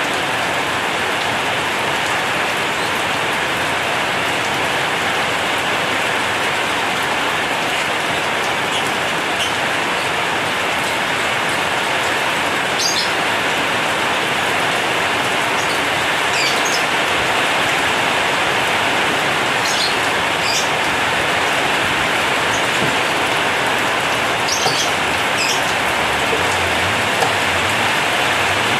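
Heavy rain drumming steadily on a corrugated zinc roof, a dense even hiss with scattered sharper drip ticks. A faint low rumble comes in near the end.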